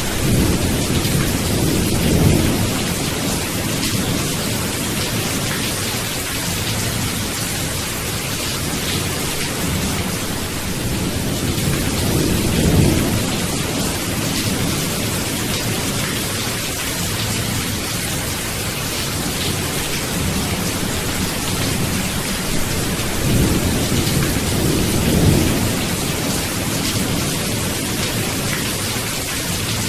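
Steady heavy rain with low rolls of thunder that swell several times, most strongly about two, twelve and twenty-five seconds in.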